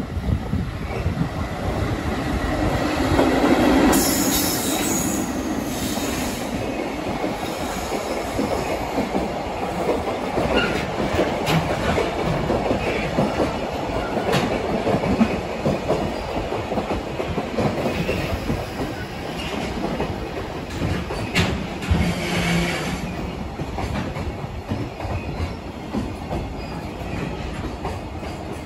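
JR Freight container train hauled by an EF65 electric locomotive rolling in along the platform to stop: a steady rumble and clatter of wagon wheels over the rail joints. A high wheel squeal comes about 4 seconds in and again around 21 to 23 seconds in.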